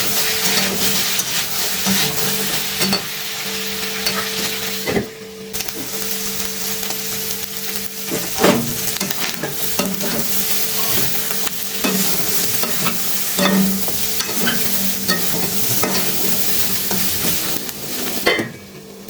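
Pieces of local rooster frying in a pan without oil, sizzling steadily while being stirred, with scrapes and sharp pops now and then. A steady low hum runs underneath. The sizzle dips briefly about five seconds in and fades near the end.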